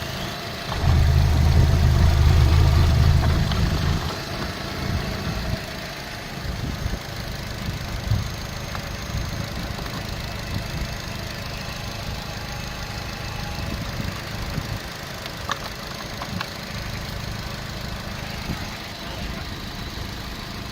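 Opel Z18XER 1.8-litre four-cylinder petrol engine running at idle, much louder and deeper from about one to four seconds in, then settling to a steady idle.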